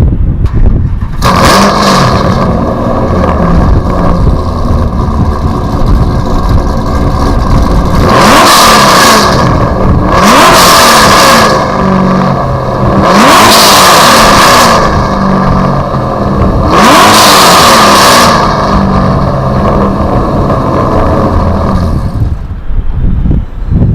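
Ultima GTR's Chevrolet LS V8 through an X-pipe exhaust, running loud and revving hard in five surges, with a short one near the start and four longer ones in the middle stretch, before dying away near the end.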